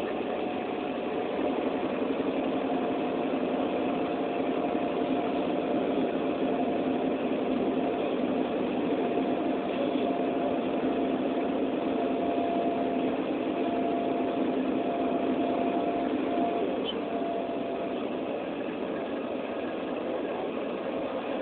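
Steady hum of a running vehicle engine, unchanging throughout.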